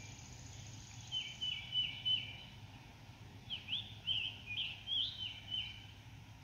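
Songbirds singing in woodland: a phrase of repeated stepped chirps about a second in, then a quicker run of varied, sweeping notes from about halfway, over a steady low hum.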